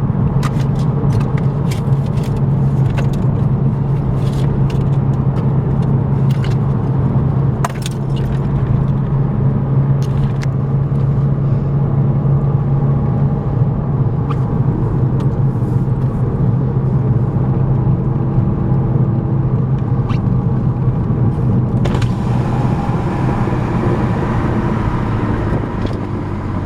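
Exhaust of a 2010 VW GTI's turbocharged 2.0-litre four-cylinder running through a 3-inch APR downpipe and straight pipes with no muffler, droning steadily while cruising. It is heard from inside the cabin with the windows down. Near the end the drone drops in pitch.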